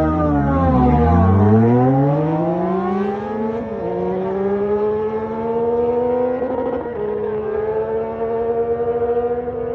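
Motorcycle engine accelerating hard through the gears. Its pitch dips, then climbs for about three seconds, drops at each upshift at about 4 s and again near 7 s, and climbs again after each shift.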